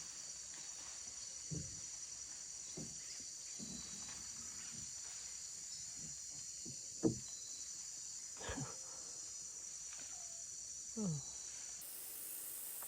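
Rainforest insect chorus, a steady high-pitched drone of many insects, with a few short, faint sounds scattered through it, the loudest about seven seconds in. Near the end the chorus changes abruptly to a different, higher-reaching drone.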